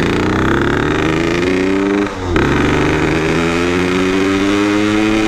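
Yamaha RX-King's 135 cc single-cylinder two-stroke engine pulling under way: the pitch climbs, drops at a gear change about two seconds in, then climbs again more slowly. The engine is not yet fully warm and still running wet, as the rider says.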